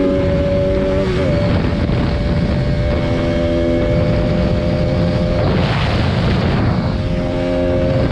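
Motorcycle engine running at steady speed under heavy wind rush on the microphone. The engine note holds steady, shifts pitch briefly about a second in, fades for a moment a little past the middle, then comes back.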